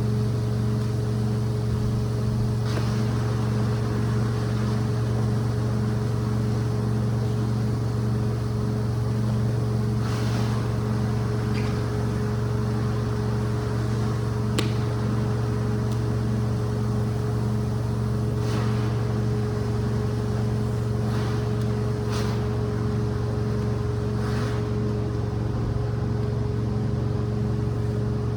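Rug-cleaning machine running with a steady, low motor drone. Now and then a short hissing swish rises above it.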